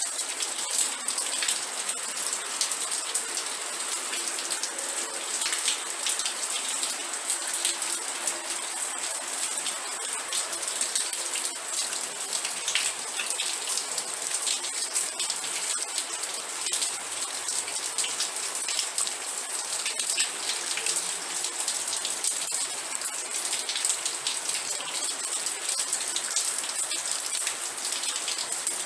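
Steady rain falling on a surface, a dense even patter of many fine drop ticks with a bright hiss.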